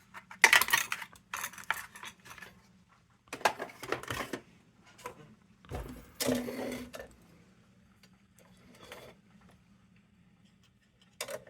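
Small metal lantern parts being handled: a few short spells of clicking, clinking and rustling as a wick is worked into a kerosene lantern burner.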